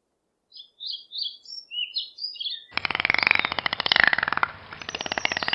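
A bird's string of short, high chirping notes, then, about halfway through, a loud, very fast pulsing rattle that starts abruptly and keeps going.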